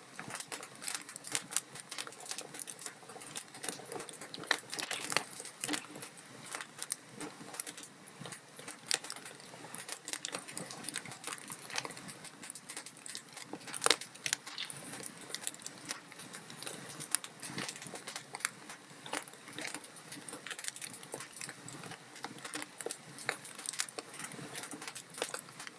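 Log fire crackling: dense, irregular pops and snaps of burning wood over a soft hiss, with a sharper pop about 14 seconds in.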